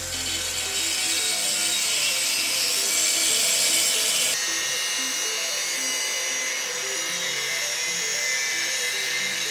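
Corded INGCO angle grinder with a grinding disc grinding iron: a loud, steady hissing grind that changes tone about four seconds in.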